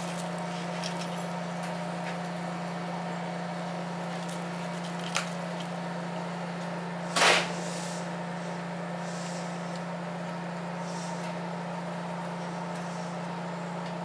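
Steady electrical hum inside the cab of an Ichibata Electric Railway 7000 series electric railcar, with a small click about five seconds in and a short, louder hiss-like burst about seven seconds in.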